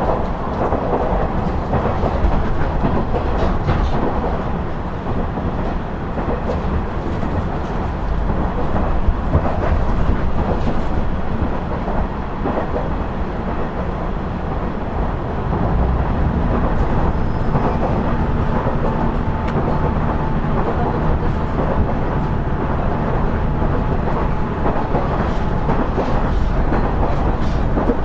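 Running sound of a KiHa 110 series diesel railcar from inside the car: a steady low diesel-engine drone and rumbling wheel and rail noise, with an occasional light click. A steady engine note rises above the noise about halfway through for several seconds.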